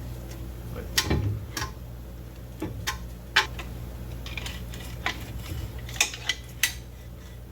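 Metal tools and steel parts clinking and clanking: about nine sharp metallic clinks at irregular intervals, the loudest a heavier clank about a second in, over a steady low hum.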